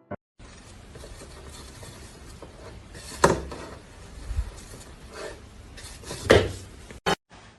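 Steady rustling and scraping noise with two sharp knocks or clatters, about three seconds apart, and a short click near the end.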